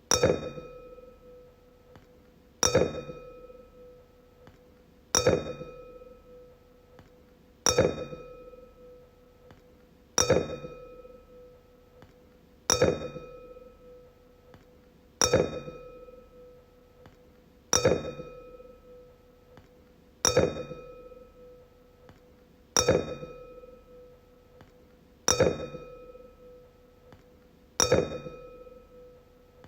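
A wine glass struck and ringing out twelve times, evenly about every two and a half seconds. Each strike gives a sharp clink followed by a clear ringing tone that fades.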